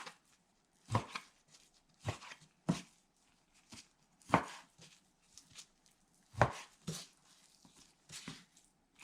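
Kitchen knife cutting through raw chicken breast and knocking on a cutting board, about eight separate knocks at uneven intervals, as the chicken is cut into bite-size pieces.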